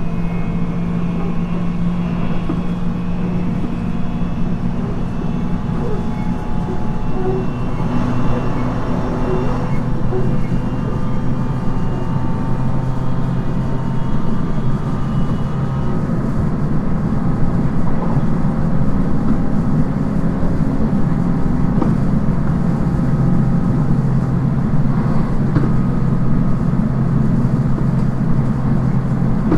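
JR East 719 series electric train running along the line, heard from inside the car: a steady hum from the motors and gears over the continuous rumble of wheels on rail. This is the car noted for its unusual running noise.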